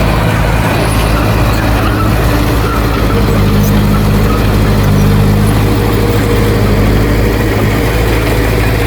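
Heavy diesel engine of earthmoving machinery running steadily under load, a low drone with no break. From about three seconds in to about seven, a second, higher engine note joins it.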